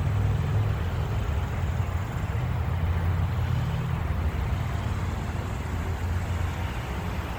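Wind buffeting the microphone outdoors: a steady, rough low rumble with no other distinct event.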